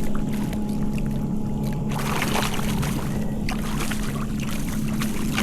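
Wind buffeting the microphone and water lapping and splashing against a kayak hull, over a steady low hum. The splashing grows busier about two seconds in.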